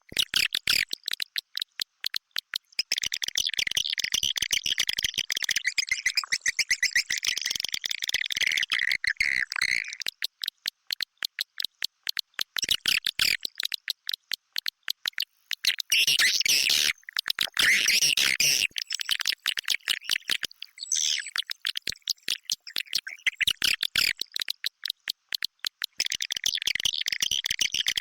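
Swiftlets twittering in a dense, rapid chatter of high chirps over fast clicking, louder in stretches. This is a swiftlet lure call ('inap' roosting call) of the kind played to draw swiftlets into a nesting house.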